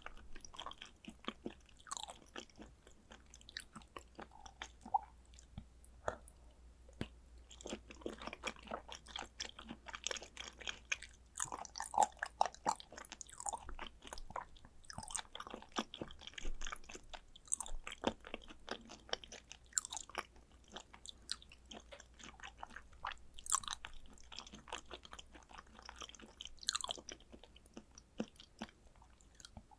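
A person chewing raw tuna sashimi (fatty belly cuts), with dense, irregular short mouth clicks and smacks throughout.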